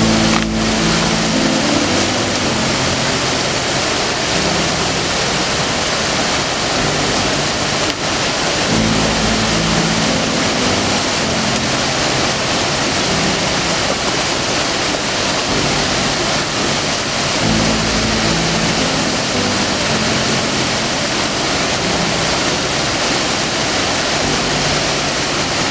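Steady rushing noise of riding a moving passenger train, the rolling and wind noise of the ride filling the sound. A low hum rises out of it for a couple of seconds at a time, several times over.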